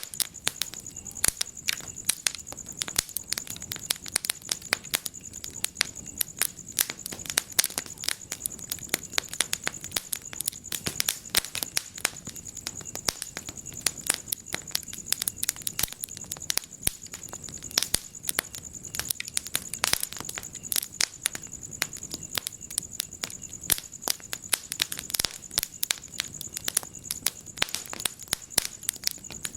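Wood fire crackling in a fireplace: dense, irregular sharp pops and snaps, several a second, over a soft hiss and a faint steady high-pitched tone.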